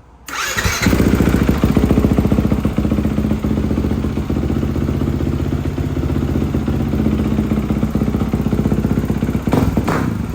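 Four-stroke single-cylinder dirt bike with a freshly fitted aftermarket exhaust starting up and settling into a loud, steady idle.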